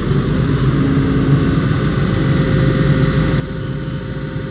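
Hitachi excavator's diesel engine running under hydraulic load as the boom is slowly lifted. The engine note is steady, then drops abruptly in loudness about three seconds in.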